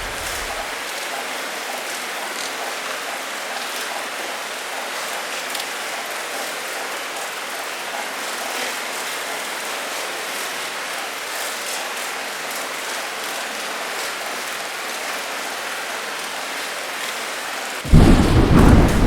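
Steady rain pouring down, an even hiss. A thunder rumble dies away in the first second, and near the end a loud thunderclap breaks in suddenly with deep rumbling.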